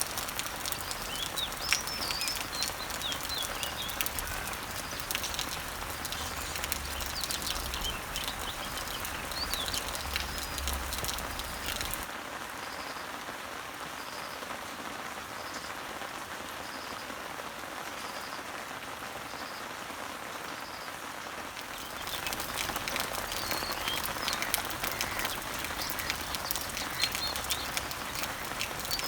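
Summer rain falling on garden leaves and trees, a steady patter of drops with birds chirping over it. For about ten seconds in the middle the rain gets quieter and the chirping stops, leaving a short high note repeated about once a second, then the heavier patter and the birds come back.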